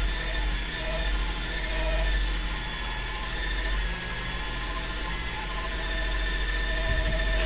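A small machine motor running steadily with a low hum, with a short wavering whine that comes and goes every second or two.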